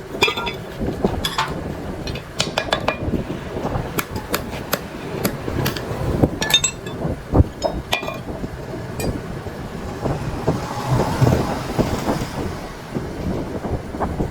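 Irregular metallic clinks and knocks of tools on machine parts, with a stretch of rougher scraping about ten seconds in.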